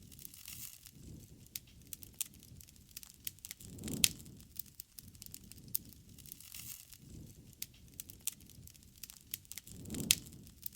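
Wood campfire crackling with frequent sharp pops and snaps over a low, soft rush of flame. The rush swells twice, about four seconds in and near the end, each time with a loud pop.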